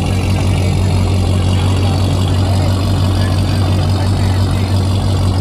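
Car engine running steadily, a constant low drone with no change in revs.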